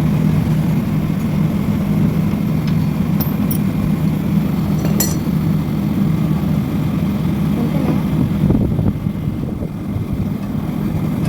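Split air conditioner's outdoor unit running steadily, its compressor and fan humming. The unit is kept running for a refrigerant pump-down. A few light metallic clinks, about three and five seconds in, come from tools or valve caps being handled at the service valves.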